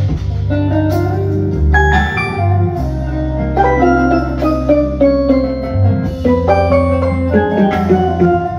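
Instrumental ensemble music: a quick melody of plucked, ringing kanun notes over long sustained bass notes, with drums and violin in the band.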